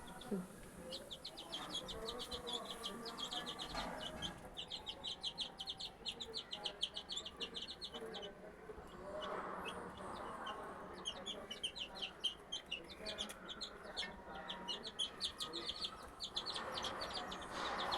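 A flock of three-week-old domestic chicks peeping: rapid runs of short, high calls, pausing briefly twice.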